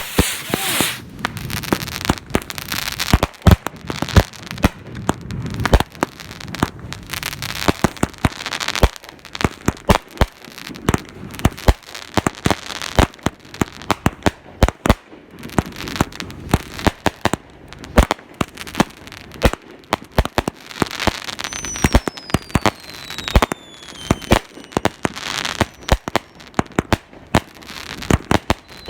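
Fireworks going off in quick succession: many sharp bangs and crackling, with a falling whistle about two-thirds of the way through and another near the end.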